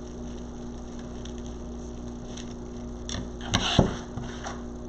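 A steady electrical hum with faint rustling as ribbon or deco mesh and pipe cleaners are handled on a wreath frame, and a few sharper crackles a little over three seconds in.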